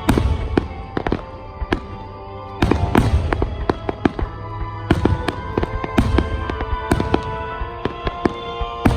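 Fireworks bursting in a rapid, irregular series of booms and sharp bangs, with music playing throughout.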